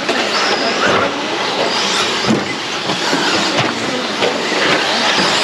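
Electric RC truggies and stadium trucks racing on the track: a steady hiss of tyres and motor whine, with a few short knocks about two, three and a half and four seconds in.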